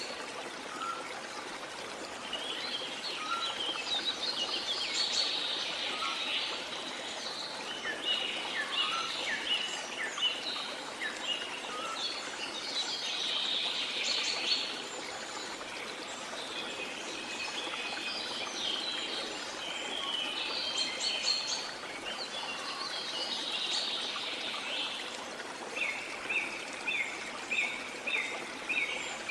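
Several birds calling and chirping over a steady rush of falling water. Near the end one bird gives a quick run of short repeated notes, about two to three a second.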